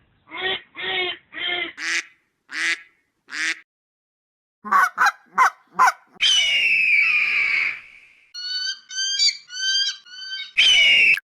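A series of short animal calls, some in quick groups of three or four, with a longer call about six seconds in that falls in pitch, cut together with abrupt silent gaps.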